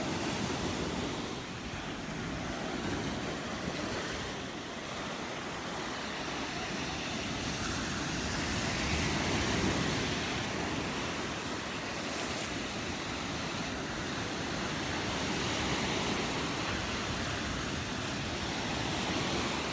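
Gulf surf breaking and washing up the beach, a steady rush that swells and eases, with wind on the microphone.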